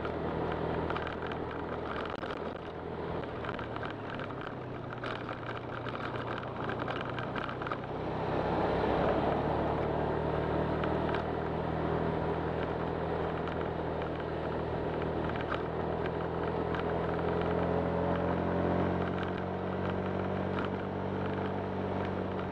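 Honda Click 125 single-cylinder scooter engine running under way, with wind and road rush. The engine note grows louder about eight seconds in and then holds steady.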